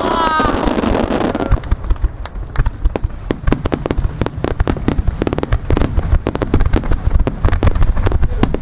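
Star mine fireworks barrage: dense rapid crackling pops over a continuous low rumble of bursting shells.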